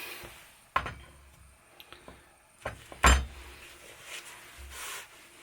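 Several separate knocks and light clinks of hard objects being handled and set down on a table. The loudest is a knock with a dull thud a little after halfway.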